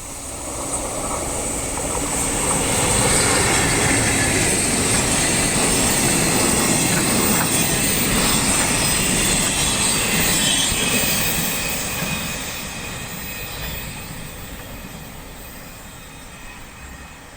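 EF65 electric locomotive hauling a short rake of empty Chiki rail-carrying flatcars past. The rumble builds over the first couple of seconds, holds loud for several seconds, then fades away over the last six or so.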